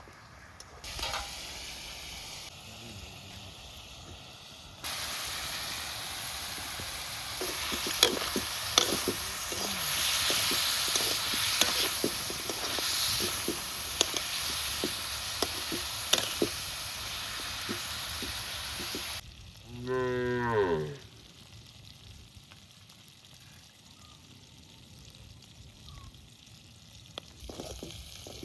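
Food sizzling in a cooking pot with the clicks and scrapes of stirring, then a cow moos once, about a second and a half long, a little after the sizzling stops.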